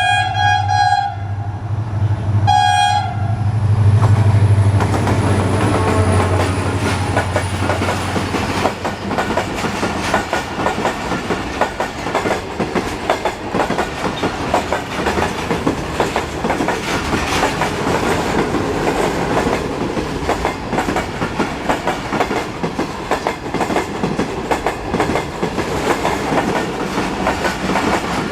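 Pakistan Railways HGMU-30 diesel locomotive sounding its horn, a long note that stops about a second in and a short second blast, its engine running with a low hum. The train then rumbles past with wheels clattering over the rail joints.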